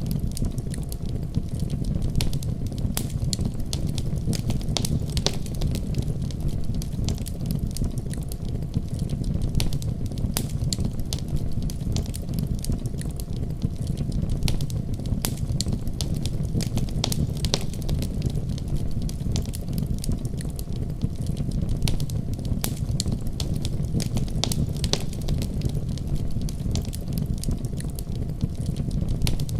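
Wood fire crackling with frequent irregular pops and snaps, over a steady deep rumble of storm wind.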